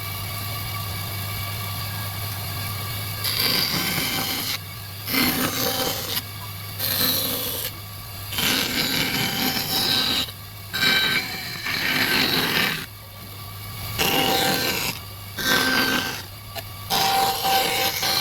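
A woodworking tool working wood in repeated rasping passes of one to two seconds each, with short breaks between, over a steady low hum that is heard alone for the first few seconds.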